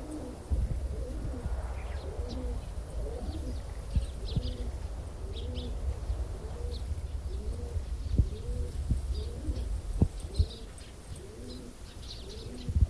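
Racing pigeon cocks cooing over and over, one rising-and-falling coo after another, with short high chirps and a few sharp knocks among them.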